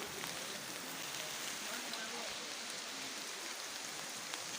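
A steady, even hiss of water.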